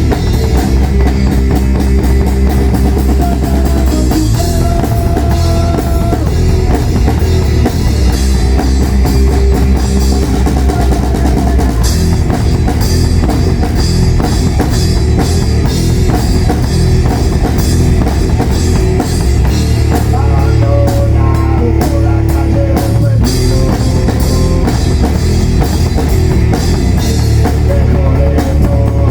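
Rock band playing an instrumental passage: drum kit with bass drum, guitar and bass.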